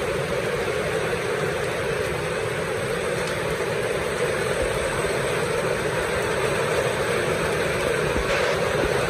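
Steady rain falling in an even, unbroken hiss, with no breaks or single impacts standing out.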